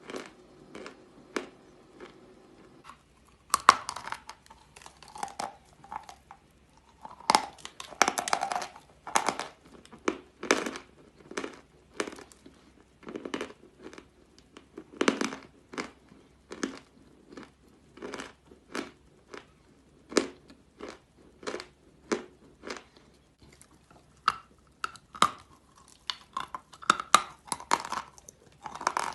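Dry crunching of natural edible chalk being bitten and chewed close to the microphone. Quiet small crunches at first, then a loud sharp bite about three and a half seconds in, followed by crisp chewing crunches about one or two a second. There is another loud bite about seven seconds in.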